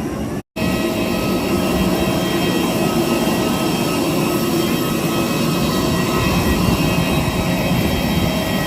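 Steady engine drone with several constant whining tones, as heard while riding in a running vehicle.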